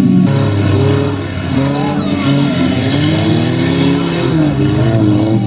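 Demolition derby car engines revving, their pitch rising and falling as the drivers work the throttle. A harsh hiss joins about two seconds in and cuts off about two seconds later.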